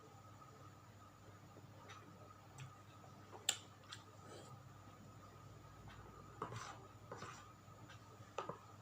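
Tempeh being eaten close to the microphone: a handful of short, sparse crunches and clicks, several seconds apart, over a faint steady hum.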